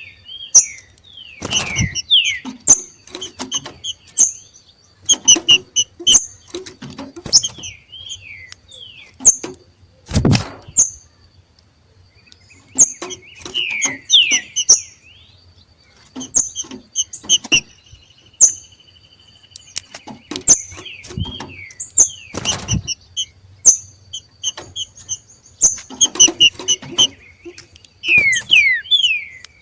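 Two green-winged saltators (trinca-ferro) giving their 'macheado' calls: rapid short chirps mixed with falling whistled notes, the call of birds coming into breeding condition. Several sharp thumps cut in, the loudest about ten seconds in and again near the twenty-two-second mark.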